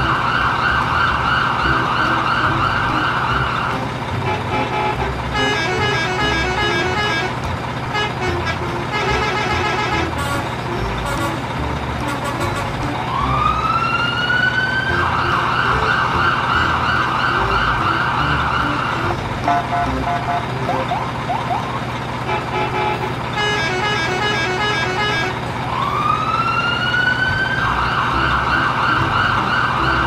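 Electronic siren that rises in pitch and then holds a steady wail for a few seconds, repeating about every 13 seconds. Between the wails runs a beeping electronic tune.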